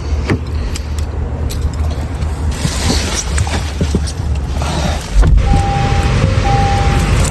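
A new Acura being got into and started: clicks and knocks of handling over a low rumble, then a louder, steady low engine rumble about five seconds in, with short, even electronic tones sounding on and off after it.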